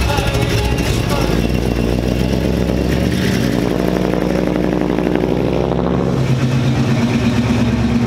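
Vintage cars driving slowly past, engines running with a low, steady exhaust note. One engine rises in pitch about three to five seconds in as it pulls away, and another car's engine comes in about six seconds in.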